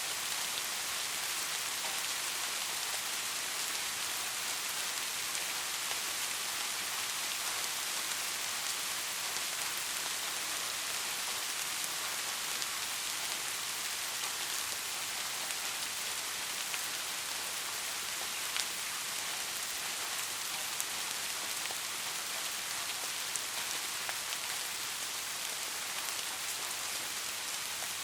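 Steady rain falling on a surface: an even hiss of many drops, with a few sharper individual drop ticks standing out now and then.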